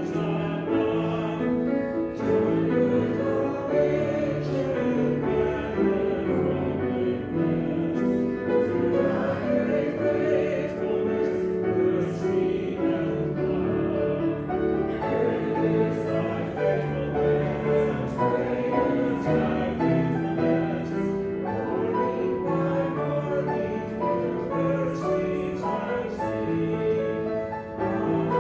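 Church music: a choir singing sustained, slow chords with instrumental accompaniment, continuous and steady in volume.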